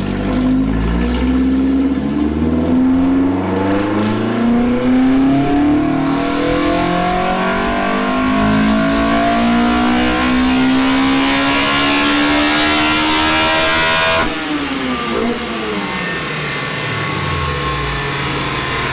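Toyota 4A-GE four-cylinder on individual throttle bodies making a full-throttle pull on a chassis dyno, its note climbing steadily to high revs for about fourteen seconds. The throttle then snaps shut and the revs fall away. The VVT-i intake cam is set 5 degrees retarded.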